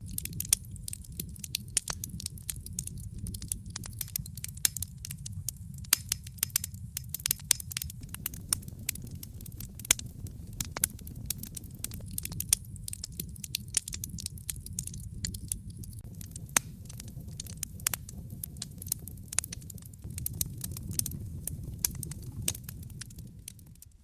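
Campfire of burning wood crackling, with many sharp, irregular pops and snaps over a steady low rumble of the flames.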